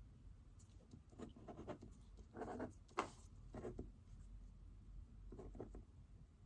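Pen writing on paper: short, faint scratching strokes in several bursts, with one sharp tap about three seconds in.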